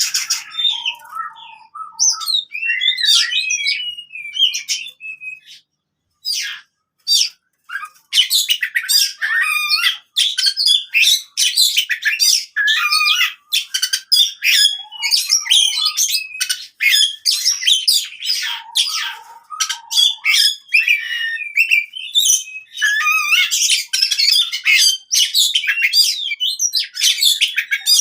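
Oriental magpie-robin (kacer) singing its fast, aggressive fighting song: a dense stream of rapid, varied chirps and sharp notes, with a short break about six to eight seconds in.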